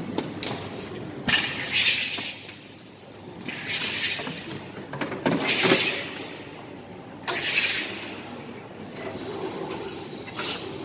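Suitcase being wrapped in stretch film at an airport baggage-wrapping station: four hissing bursts, each about a second long, as the plastic film pulls off the roll, over a low background murmur.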